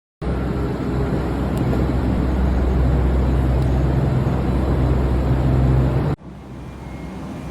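Steady hum and rushing fan noise of cold-store refrigeration machinery. It cuts off abruptly about six seconds in, leaving a quieter hum.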